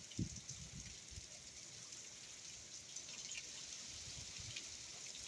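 Steady hurricane rain falling, faint and even, with a few brief low gusts of wind buffeting the microphone.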